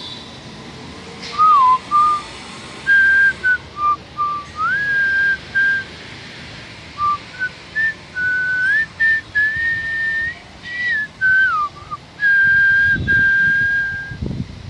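A whistled tune: a single clear pure tone moving in steps and short glides between held notes, in phrases with brief pauses, ending on a long held note. A short low rumble sounds under it near the end.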